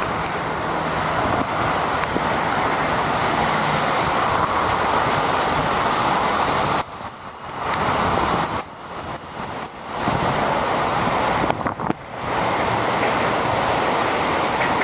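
Steady rushing noise from riding a bicycle on wet roads: wind on the microphone and tyre hiss, with traffic mixed in. The rush drops away briefly a few times past the middle, and thin, high-pitched squeals sound during those drops.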